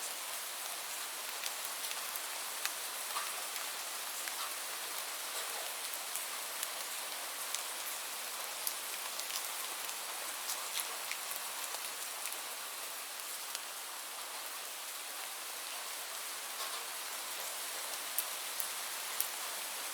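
Steady rainfall, an even hiss with many separate drops ticking sharply on a surface.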